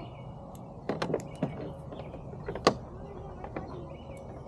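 Hand tools and metal parts clicking and knocking during work under a car: a few sharp clicks about a second in and one louder knock just past halfway, over steady low background noise.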